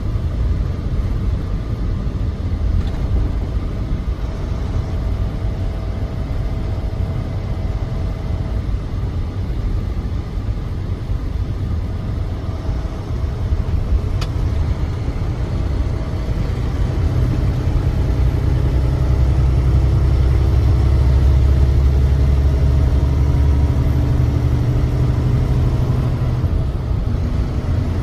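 Semi-truck engine and road noise from a truck under way, a steady low rumble that grows louder about halfway through and eases off again near the end.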